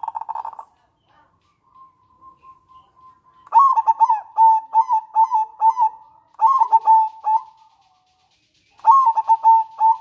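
Zebra dove (perkutut) calling: a rapid rattling trill that stops about half a second in, then three phrases of quick, stuttering coos a few seconds apart.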